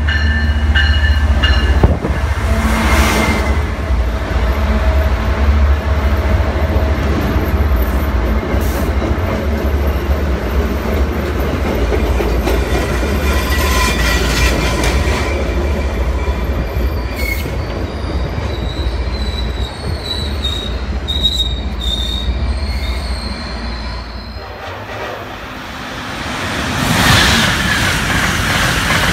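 MBTA HSP46 diesel locomotive and its commuter coaches moving past at the platform: a steady deep engine rumble with rolling wheel noise and faint high wheel squeals. Near the end, a loud rushing swell as an Amtrak Acela electric trainset passes.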